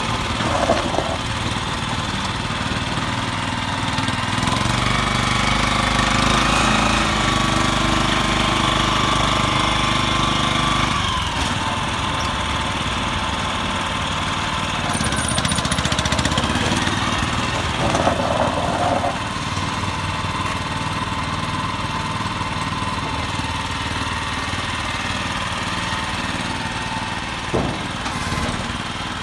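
Tanker truck's engine running at a steady idle with a rattly clatter. It runs louder and fuller for several seconds from about five seconds in, as if raised above idle, then drops back abruptly around eleven seconds.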